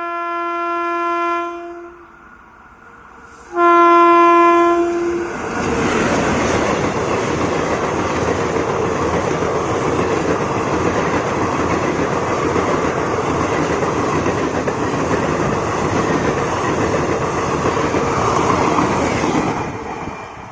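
WAP-4 electric locomotive's horn sounding a blast that ends about two seconds in, then a second, louder blast. The express then passes at high speed with a loud, steady rush of wheels and coaches on the rails, which falls away shortly before the end.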